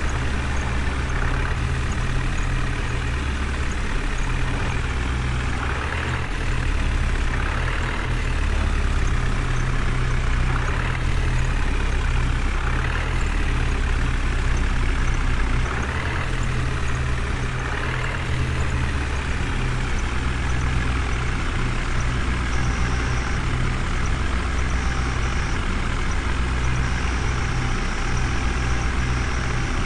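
Heavy vehicle engine running steadily, a deep truck-like rumble.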